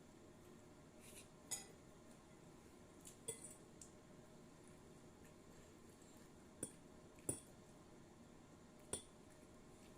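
Cutlery clinking against a plate as someone eats: several light, scattered clinks over a quiet background.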